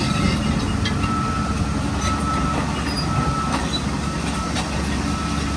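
Bulldozer's diesel engine running steadily under load, with scattered metallic clanks and a high squeal that comes and goes, typical of steel tracks working.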